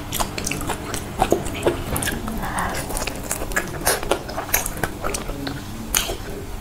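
Wet eating sounds of a person biting and chewing soft, creamy durian flesh, with many quick mouth clicks and smacks.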